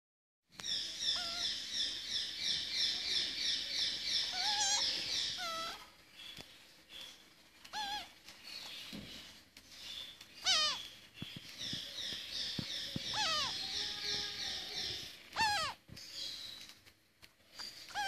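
Bird chirping: fast runs of high chirps, about four a second, in two long stretches, with a few louder, wavering calls between them.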